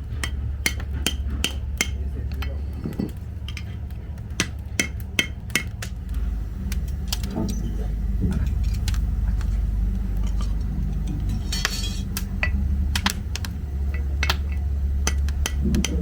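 Hammer blows ringing on the steel of a tobi logging hook as it is re-forged, coming in runs of about two to three strikes a second with short pauses between the runs. A steady low hum runs underneath.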